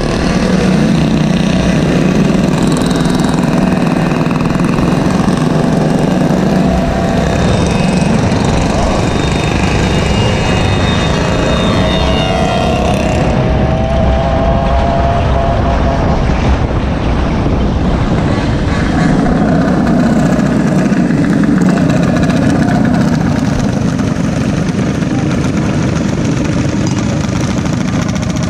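Small gasoline engines of Go-Ped scooters and mini bikes running continuously during a ride. Their pitch shifts, with a rising whine from about ten to fourteen seconds in.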